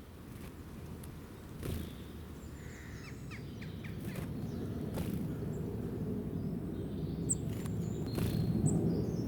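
Small birds chirping briefly over a steady low outdoor rumble: a quick run of short chirps about three seconds in, and two sharp high chirps near the end.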